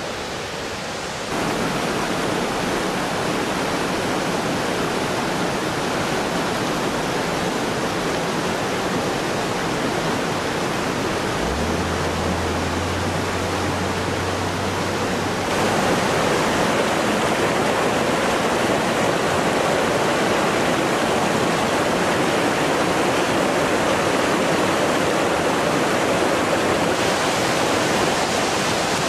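Rushing water of a mountain torrent with waterfalls, a steady rush of noise that gets louder in steps about a second in and again about halfway through.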